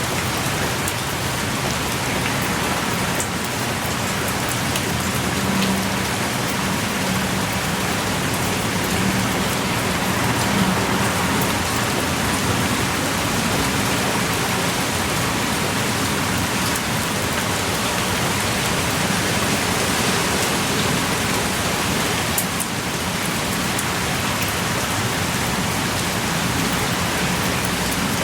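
Steady pouring rain, with an occasional single drop standing out.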